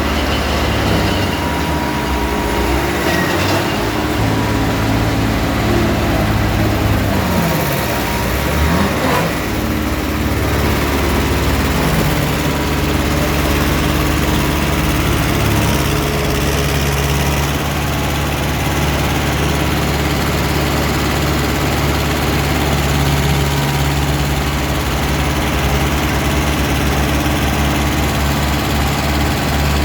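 Tractor engine running steadily, with one brief dip in engine speed that comes back up about eight seconds in.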